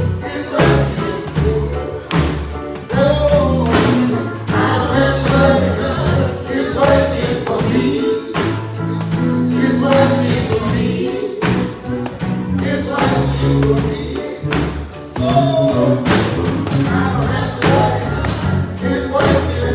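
Live gospel music with a steady beat: bass and keyboard chords, tambourine and singing voices.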